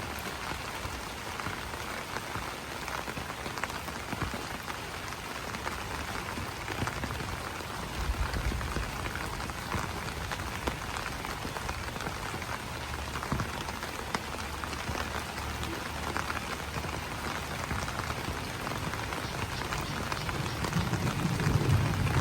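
Steady rain pattering on broad banana leaves, many small drops tapping at once, with a low rumble swelling near the end.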